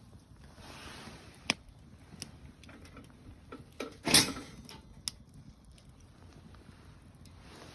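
Wood campfire crackling, with a few sharp pops over a soft hiss. The loudest and longest pop comes a little past halfway.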